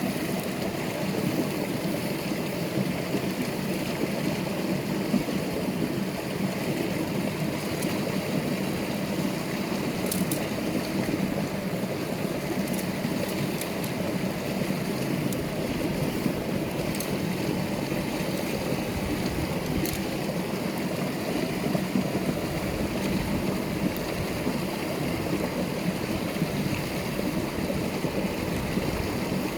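Steady rushing of running water, like a stream, with a few faint crackles or ticks.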